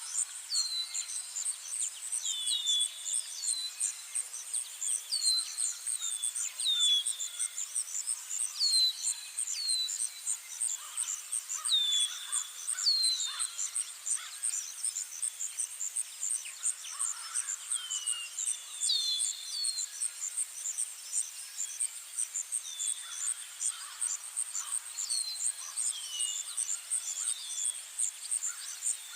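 Insects trilling in a steady, evenly pulsing high chorus, with birds giving short down-slurred chirps every second or two over it.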